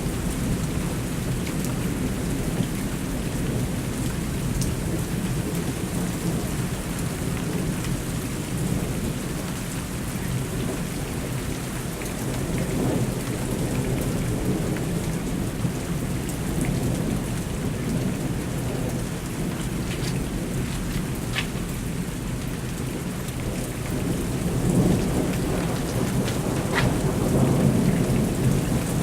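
Thunderstorm: steady rain falling, with rolling thunder rumbling under it and swelling louder twice in the last few seconds.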